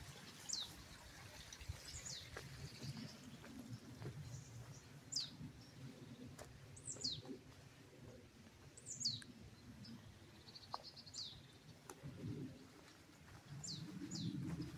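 Small birds calling in woodland: short, high notes sliding downward, repeated every second or two, with a brief quick trill now and then. A faint low rustling runs underneath.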